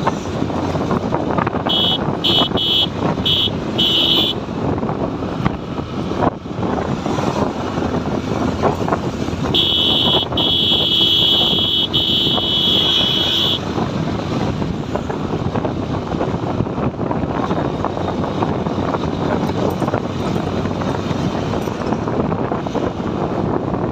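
Motorcycle riding along a highway, with steady road and engine noise and wind on the microphone. A vehicle horn beeps five short times about two seconds in, then sounds a long blast of about four seconds near the middle.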